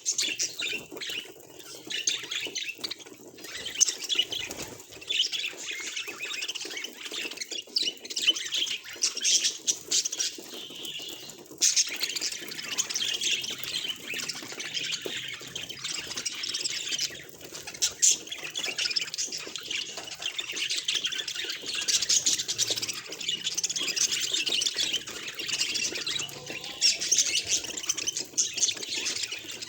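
Budgerigar chatter: a continuous, high-pitched warbling run with many short, sharp calls mixed in.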